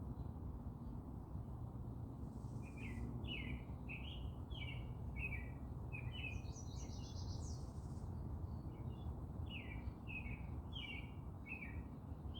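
Songbird singing: two runs of short repeated down-slurred notes, about two a second, with a brief higher trill between them, over a steady low background rumble.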